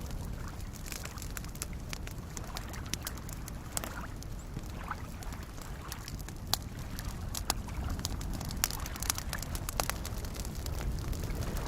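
Campfire crackling, with sharp irregular pops scattered through it and a few louder snaps past the middle, over a steady wash of soft lake waves lapping.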